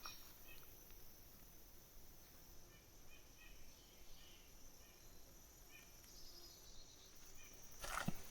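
Quiet woodland ambience: a faint steady high insect drone with a few soft bird chirps, and footsteps on the trail starting near the end.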